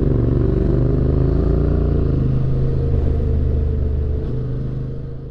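Yamaha Ténéré 700's parallel-twin engine running at low road speed, with its pitch wavering slightly early on, then fading away near the end.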